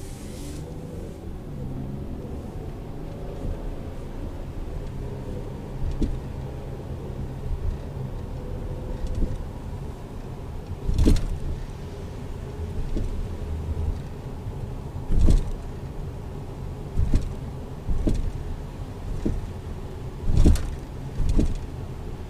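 Clunking from the rear of a 2011 Mazda Tribute over the steady hum of the running vehicle: about eight sharp knocks at irregular intervals, coming closer together and louder in the second half.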